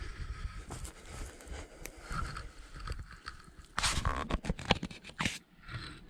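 Aluminium foil crinkling and scraping as a foil-wrapped parcel of meat is handled and pushed into campfire coals, with a loud crunching burst about four seconds in and a few sharp cracks after it.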